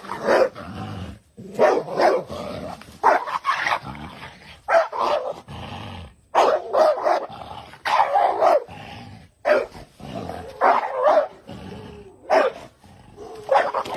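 Dog barking repeatedly, loud short barks about once a second, often two close together, with quieter sound between them.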